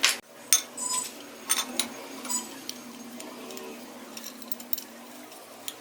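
A series of irregular sharp clicks and knocks, the loudest in the first two and a half seconds and fainter ones after, over a faint background hum.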